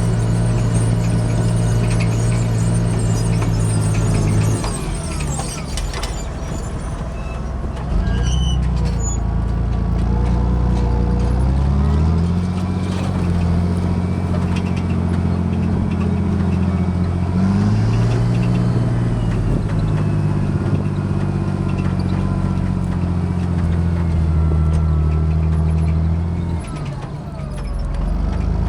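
John Deere 8410 tractor's diesel engine running steadily. Its pitch drops about four and a half seconds in, climbs back in steps around eight and twelve seconds, and drops again near the end.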